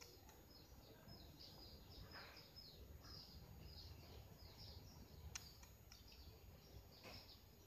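Faint chirping of small birds: quick, short, downward chirps repeating throughout over a low steady background hum, with two faint sharp clicks about five and seven seconds in.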